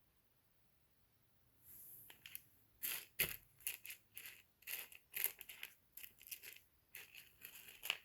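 Close handling noise: a rapid, irregular run of short crinkles and clicks, starting a little under two seconds in.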